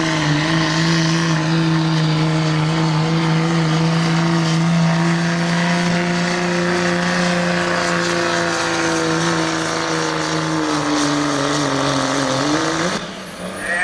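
Stock diesel pickup truck engine running hard at a steady pitch under full load while pulling a sled. The pitch sags slightly near the end, then the sound drops off abruptly about thirteen seconds in.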